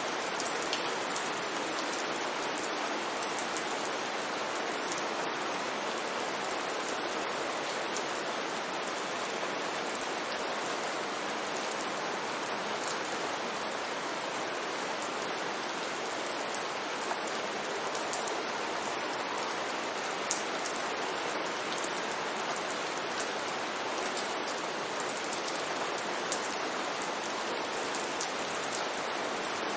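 Steady rain falling, an even hiss with scattered sharp clicks of individual drops striking hard surfaces.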